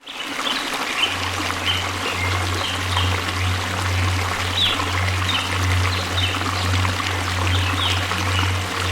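Waterfall rushing steadily, with small birds chirping briefly and repeatedly over it and a low steady hum underneath.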